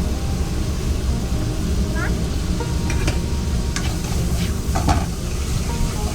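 Food sizzling as it fries, with a few sharp clicks and knocks of utensils against pans, over a steady low rumble.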